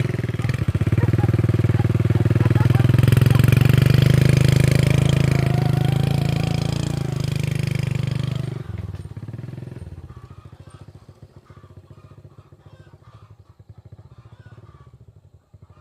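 Old motorbike's small engine running loud with a rapid, even beat, then fading gradually from about eight seconds in until it is faint.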